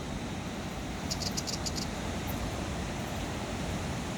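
Steady rushing noise of surf and wind at the shore. About a second in comes a brief run of high ticks.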